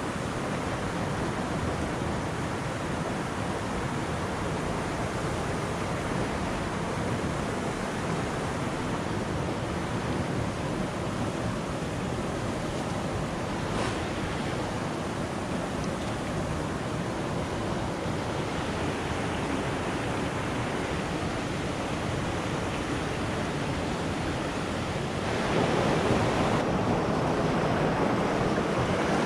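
River water rushing steadily over rocks, a constant noise that grows louder about 25 seconds in.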